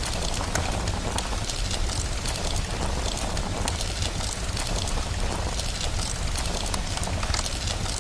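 Rain and a crackling fire together: a steady hiss over a constant low rumble, dotted with many small sharp crackles.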